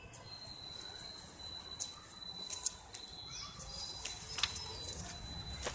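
Outdoor ambience: a steady, thin, high-pitched tone, with scattered short chirps and a few sharp clicks, the loudest about four and a half seconds in and near the end.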